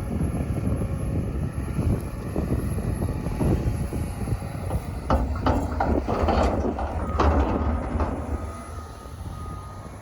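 Heavy wheel loader diesel engine running under load while pushing snow, with a run of clanks and rattles about halfway through. Near the end a reversing beeper starts sounding.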